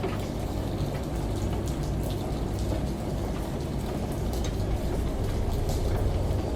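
Steady rain with scattered drop ticks, layered over a steady low hum from a washing machine.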